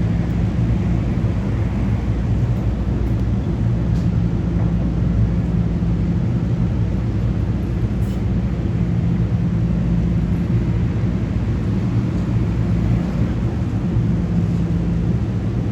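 Passenger train running past on the electrified main line: a steady, loud low rumble with a hum underneath.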